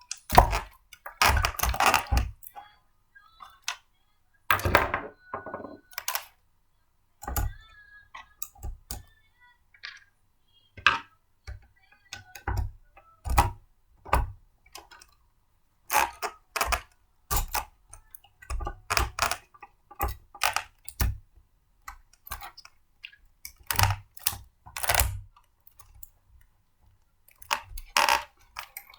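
Blender parts being handled and fitted together by hand: irregular clicks, knocks and light clinks of hard plastic and metal pieces, dozens of them at uneven gaps.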